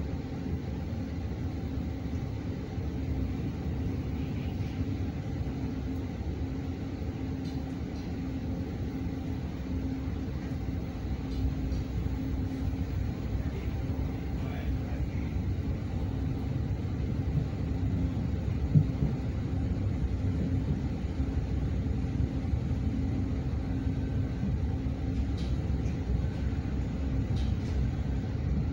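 Steady rumble of a moving passenger train heard from inside the carriage, with a low hum under it and a single sharp knock about 19 seconds in. It grows slightly louder in the second half.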